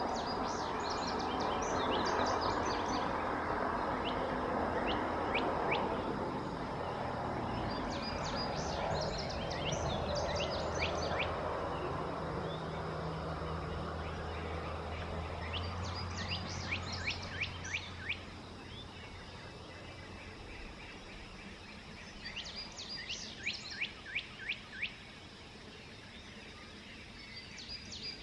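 A songbird singing the same short phrase of rapid high notes, each about two seconds long, four times at intervals of seven or eight seconds. Beneath it a low rumble, the loudest sound at first, fades away over the first twenty seconds or so.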